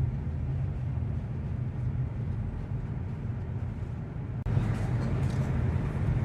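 Steady low rumble of a car driving slowly, heard from inside the cabin, with an abrupt break about four and a half seconds in.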